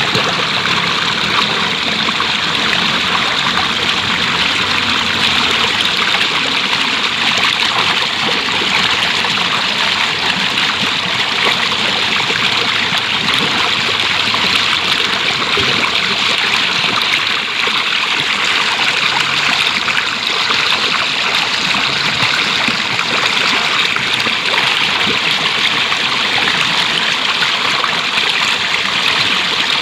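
Flowing water: a stream running over rocks, a steady rushing splash that holds even throughout.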